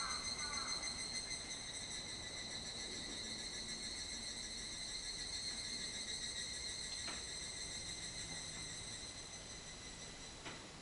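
Insect trilling continuously, one steady high-pitched note. A few short chirps come in the first second, and two faint clicks come later.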